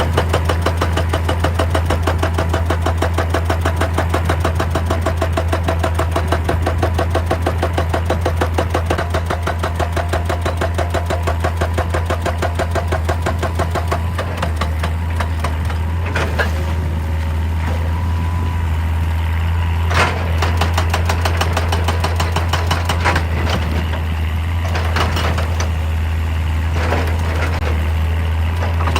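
Excavator-mounted hydraulic breaker hammering rock in a fast, even rhythm of about ten blows a second over the steady run of the diesel engine. About halfway through the hammering stops, and the engine keeps running with a few single clanks.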